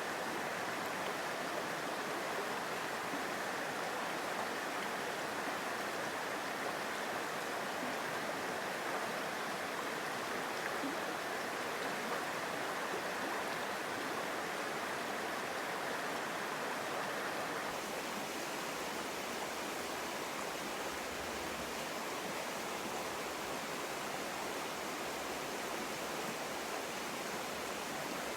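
Mountain stream water rushing steadily over rocks. About two-thirds of the way through, the sound changes abruptly and turns a little deeper.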